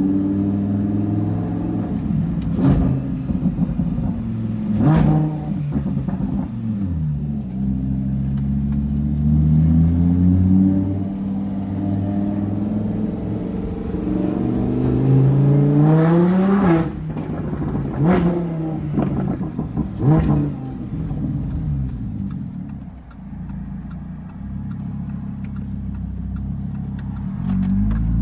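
Straight-piped V10 of a Lamborghini Huracán accelerating through the gears, its pitch climbing and then dropping at each shift, with sharp cracks from the exhaust at several of the shifts. Later it settles to a steadier, lower drone before climbing again near the end.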